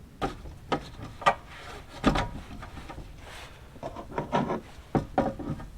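Objects being handled and set down: a series of sharp knocks and clunks with some scraping between, bunched near the start, about two seconds in, and near the end.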